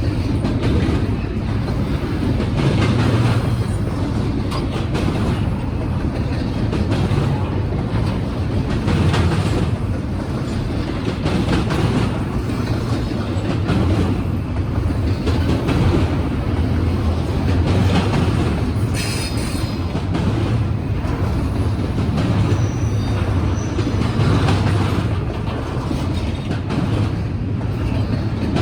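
Norfolk Southern freight train passing close by, with a steady rumble of rolling cars and wheels clacking over rail joints every couple of seconds. About 19 seconds in there is a brief high wheel squeal.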